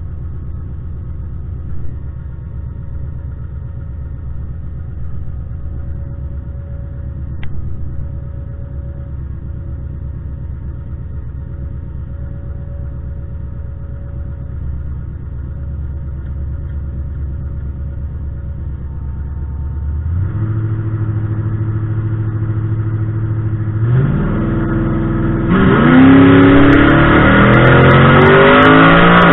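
Drag-racing Camaro's engine heard from inside the cabin, idling steadily at the starting line. About two-thirds of the way through the revs step up, rise again a few seconds later, and near the end it goes to full throttle in a launch, much louder, its pitch climbing fast.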